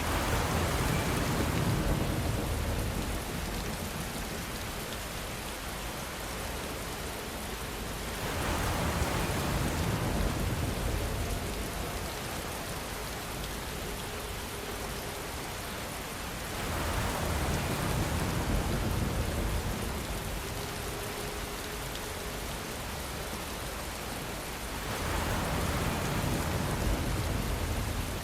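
Rain falling steadily, with the downpour swelling louder for a few seconds about every eight seconds.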